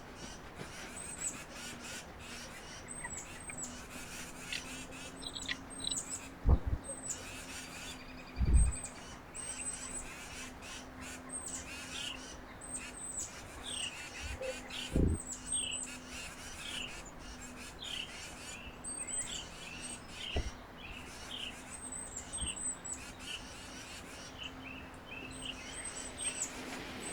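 Wild birds chirping, many short high calls repeating without pause, some with a quick downward slur. A few dull thumps stand out, the loudest about six and eight seconds in, over a faint steady hum.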